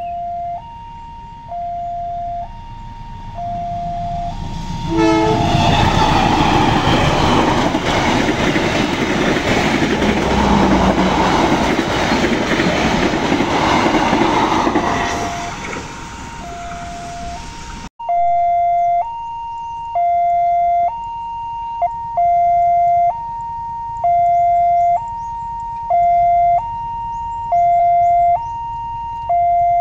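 Level crossing warning alarm sounding two alternating tones, about one change a second. A train passes loudly over the crossing from about five seconds in, fading away around sixteen seconds. After a sudden cut the alarm carries on alone, louder.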